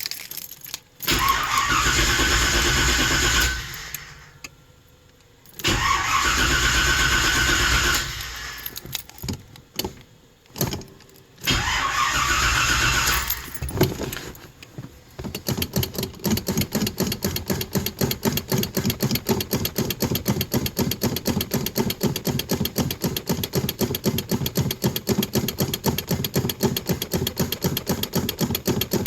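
Car engine cold-started after sitting for about two weeks: the starter cranks it in three short tries a few seconds apart. A fourth, long crank begins about halfway through and goes on with an even rhythm of about four to five pulses a second.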